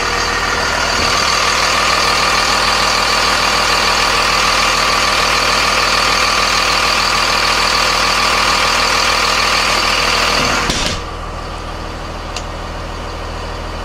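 Cummins 5.9-litre turbo diesel engine of a Blue Bird TC2000 bus idling steadily, with a high steady whine over the engine note. About eleven seconds in, the sound drops suddenly and the whine goes, leaving a quieter, lower steady hum.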